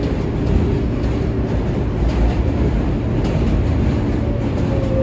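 R143 subway car running at speed, heard from inside the car: a steady rumble of wheels on track with occasional faint clicks.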